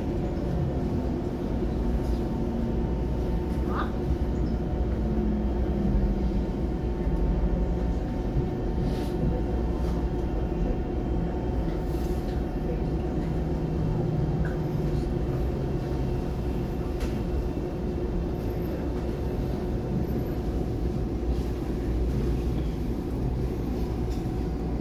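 Electric multiple-unit train heard from inside the carriage, pulling slowly along a platform: a steady low rumble of wheels and running gear with a faint constant hum, and a few light clicks.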